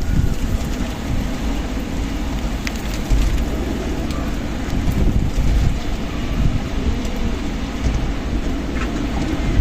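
Strong wind blowing steadily, with a deep rumble of wind buffeting the microphone.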